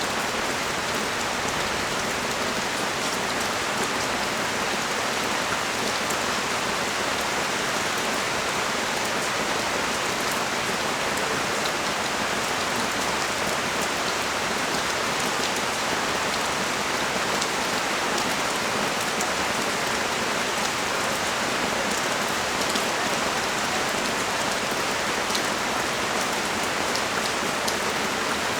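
Heavy rain pouring steadily onto the street and the surfaces around a balcony: a dense, even hiss with fine drop patter and no let-up.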